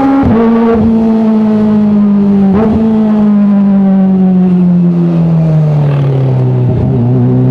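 Kawasaki ZX-25R's 250 cc inline-four running through an Arrow full-system titanium exhaust, its engine note sliding steadily down to about half its pitch, with a few brief breaks in the sound.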